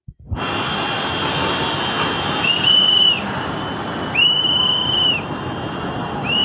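Fast-rushing floodwater, a loud steady noise, with shrill whistle blasts cutting through it: two about a second long and a third starting near the end, each rising into a held high note and dropping off at the end.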